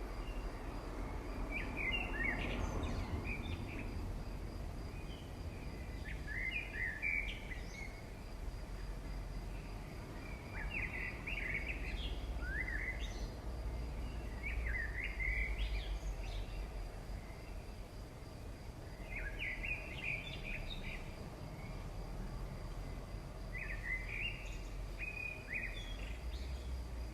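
A songbird singing short twittering phrases, one every four or five seconds, over a steady low background rumble.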